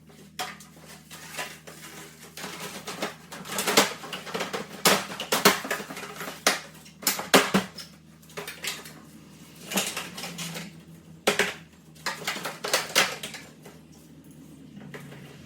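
Irregular clicks and knocks of hard parts of a split-system air conditioner being handled and fitted, over a faint low steady hum.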